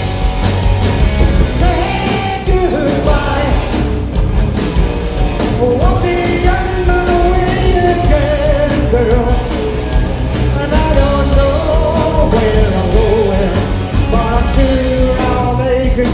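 Live rock band playing loudly, with a lead vocal singing over electric guitars, bass and a steady drum beat.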